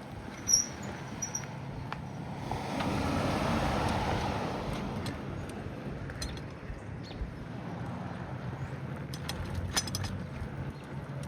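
Steady road and wind noise of a bicycle ride. The noise swells for a couple of seconds a few seconds in. There is a short high chirp about half a second in and a few sharp clicks near the end.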